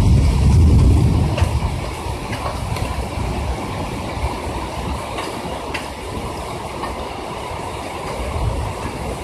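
Heavy rain drumming on a window ledge and on the body of the recording phone: a dense, steady hiss with sharp taps of single drops now and then. A low rumble of thunder is loudest in the first second or so, then dies away.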